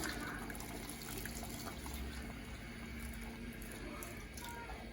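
Liquid running steadily, at a low level.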